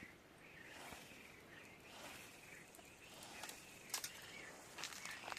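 Faint outdoor animal calls: short rising-and-falling cries repeated every second or so, with a few sharp clicks near the end.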